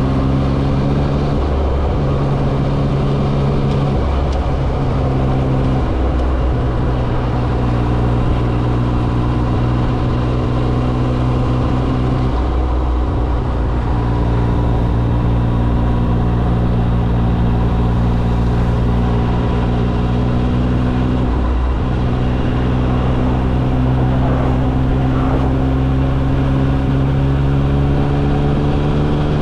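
Yamaha XSR900's three-cylinder engine running under way, its note breaking and resuming several times as the rider changes gear, then climbing steadily in pitch over the last few seconds as the revs rise.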